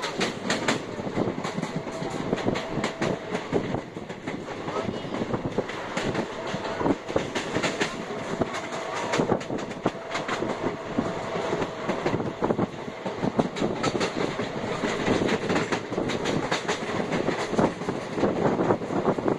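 Indian Railways passenger train running along the track, heard from inside the moving coach: a steady rumble of wheels on rail with frequent irregular clicks and clacks over the rail joints.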